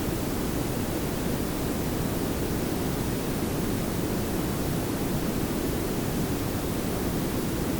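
Layered pink and brown noise: a steady, even hiss over a deeper low rumble, unchanging throughout.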